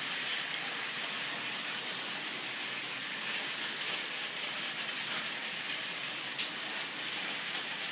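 Remote-controlled toy trains running on their track: a steady whirring hiss with a thin high-pitched whine, and a sharp click about six and a half seconds in.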